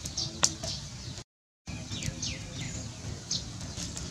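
Small birds chirping in short, quick falling calls over a steady outdoor background, with a couple of sharp cracks near the start and a brief gap of dead silence about a second in.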